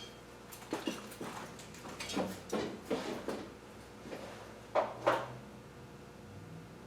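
Light clunks and knocks of parts or tools being handled and moved, about eight short separate strikes in the first five seconds, the two near the end louder.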